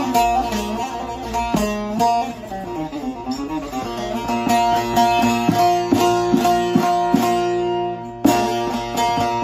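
Long-neck bağlama (saz) with a carved mulberry bowl and spruce top being played: a run of quick plucked notes over a ringing drone, with a short break about eight seconds in before the playing resumes.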